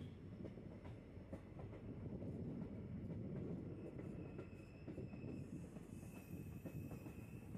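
Passenger train coach running along the track: a steady low rumble of wheels and running gear with scattered faint clicks. From about halfway a thin, steady high whine joins in.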